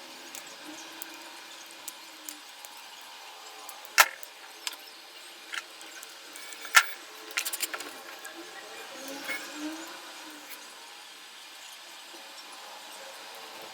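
Scattered sharp clicks and taps of small hard objects being handled, the loudest about four and seven seconds in with a quick run of clicks just after, over a faint steady hum.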